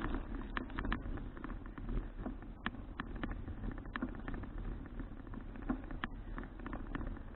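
Bicycle in motion making irregular light clicks and rattles, several a second, over a steady low rumble of the ride.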